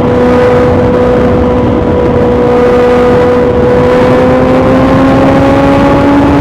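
BMW S1000XR's inline-four engine running through an Akrapovic titanium full exhaust at a steady engine speed, its pitch then climbing gradually from about four seconds in as the revs rise, over a constant wind and road noise.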